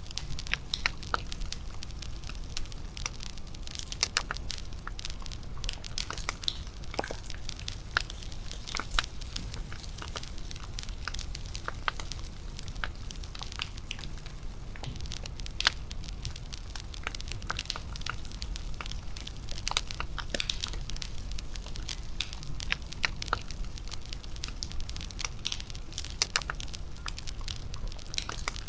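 Wood fire crackling steadily, with frequent irregular sharp pops and snaps over a low, steady rumble.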